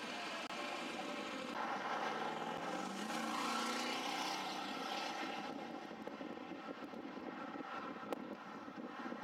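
A steady engine drone that swells for a few seconds in the middle, with a faint rising pitch, then settles back.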